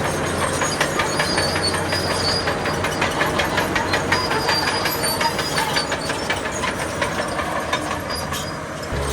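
Crawler bulldozer moving on its steel tracks: a rapid, even metallic clatter of track links, several clacks a second, over the diesel engine, with a faint high squeal above it.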